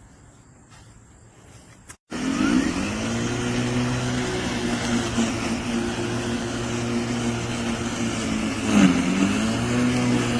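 LawnMaster CLM2413A 24V cordless lawn mower's electric motor and blade spinning up about two seconds in, then running with a steady hum. Near the end its pitch briefly sags and then recovers.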